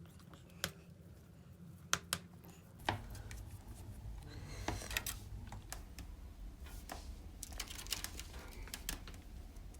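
Wood fire crackling, with scattered sharp pops and a low rumble that grows louder about three seconds in.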